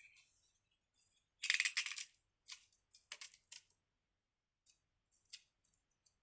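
A toy Slinky's coils clacking together as it is played with by hand: a quick run of rapid clicks about a second and a half in, then a few scattered clicks.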